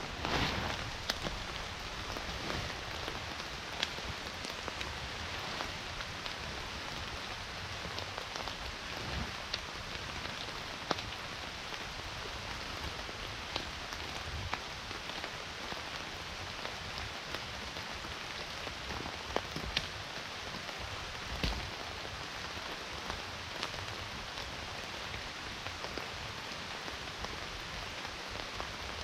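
Steady rain falling, with scattered louder drops ticking sharply at irregular intervals. A single dull thump sounds about two-thirds of the way through.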